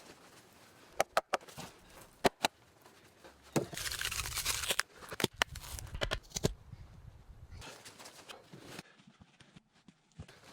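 A few sharp knocks and clicks, with about a second of rustling scrape roughly four seconds in and more knocks after it.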